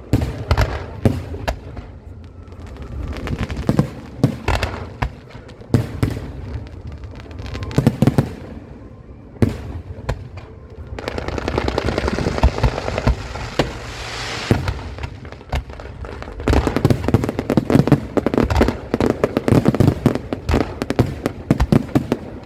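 Aerial fireworks shells bursting one after another in irregular bangs. About halfway through comes a stretch of hissing crackle, and near the end the bangs come thick and fast in a dense barrage.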